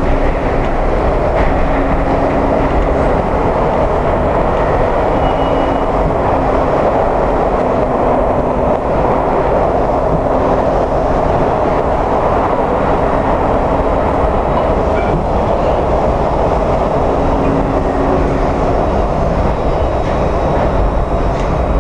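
Washington Metro Orange Line train running steadily through the underground, a loud continuous rail rumble with a low hum that comes and goes.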